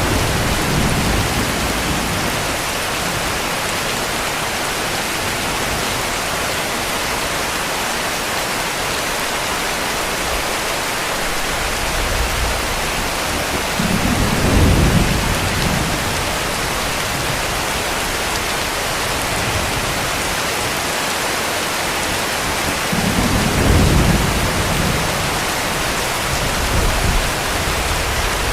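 Steady heavy rain, with distant thunder rumbling low twice, about halfway through and again near the end.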